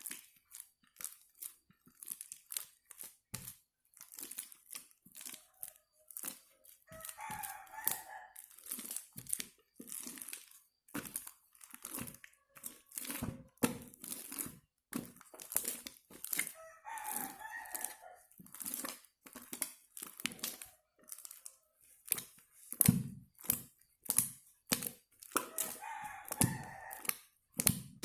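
Homemade slime being squeezed and stretched by hand: a dense run of sticky clicks, crackles and small pops. A rooster crows in the background three times, about every ten seconds.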